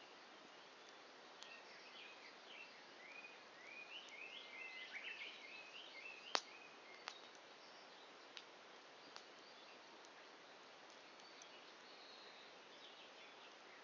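Birds chirping in quick rising and falling notes, busiest in the first half. A single sharp pop from the burning wood comes about six seconds in, followed by a few fainter crackles.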